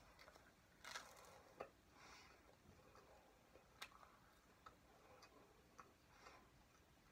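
Near silence: quiet room tone with faint, irregular small clicks and soft rustles from biting and chewing a toaster waffle.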